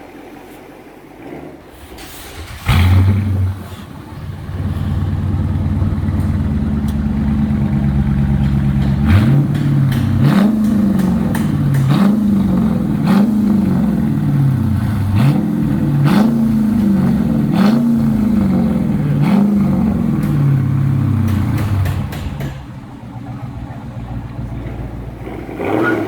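A Dodge Charger R/T's 5.7 Hemi V8 with a Flowmaster Outlaw exhaust fires up with a loud flare, then idles. It is then revved over and over, about seven quick blips that rise and fall, before settling back to a quieter idle near the end.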